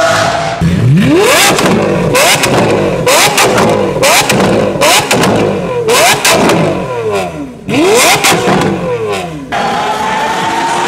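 Lamborghini Aventador's V12 being revved again and again while standing still. Each rev rises quickly and falls away with sharp crackles and pops. Another car running at steady revs is heard briefly at the start and again near the end.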